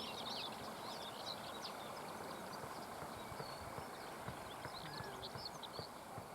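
Bluethroat song: clusters of rapid, varied high chirps and twitters, over a steady background hiss, with a few soft low knocks.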